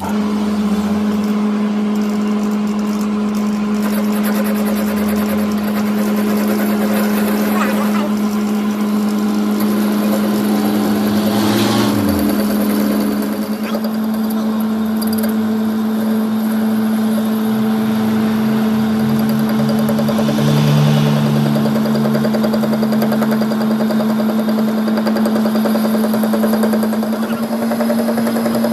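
Workshop machinery running with a steady, even hum, a few brief scraping or clattering noises over it.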